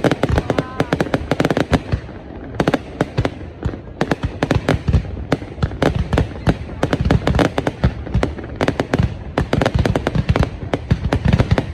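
Fireworks display going off: dense, rapid cracks and bangs, many a second, with a brief lull about two seconds in.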